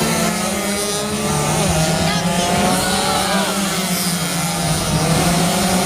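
Two-stroke 130cc underbone racing motorcycles running hard, several engine notes rising and falling in pitch over a steady low drone.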